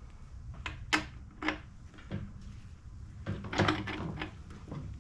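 Irregular sharp clicks and light knocks from small parts and hand tools being handled, with a busier run of clicks in the second half.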